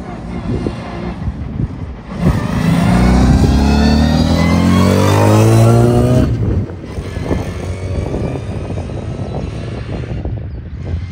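A rally car's engine as the car drives close past, loud for about four seconds from about two seconds in, its pitch sweeping and then dropping as it goes by. Wind buffets the microphone.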